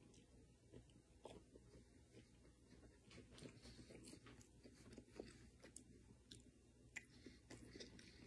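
Faint chewing of a mouthful of pizza, with soft scattered mouth clicks that grow busier about three seconds in.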